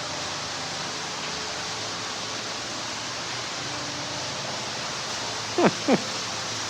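Steady rush of falling water from a garden waterfall, with two quick sweeping chirps near the end.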